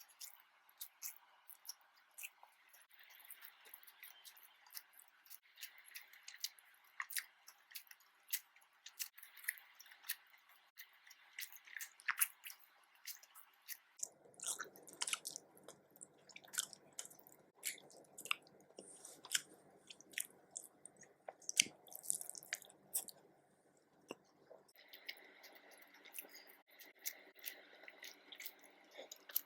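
Close-up mukbang eating sounds: a person chewing nasi dagang, with a steady run of small wet mouth clicks. The background hum shifts at about 14 seconds and again near 25 seconds, as at edits.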